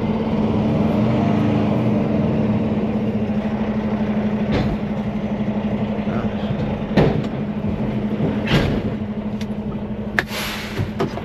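Semi truck's diesel engine idling steadily, heard from inside the cab, with a few sharp clicks or knocks scattered through it.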